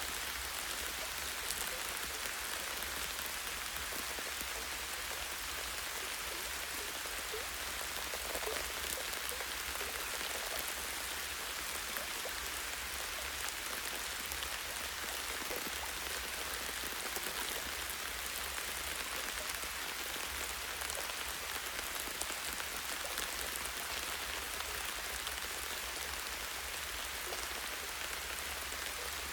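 Steady light rain: a continuous hiss of falling rain with fine, scattered patter of drops striking leaves and a tree branch.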